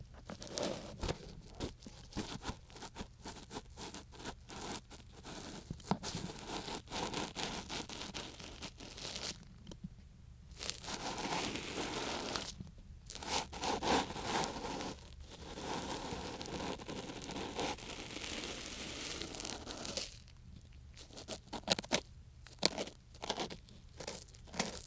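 Ear pick scraping and scratching in a microphone's ear: a dense, crackling scrape with a few short pauses.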